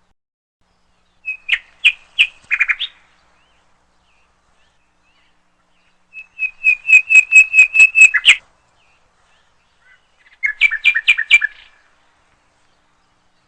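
A songbird singing three phrases of rapid repeated chirps, with silence between them. The middle phrase is the longest and loudest.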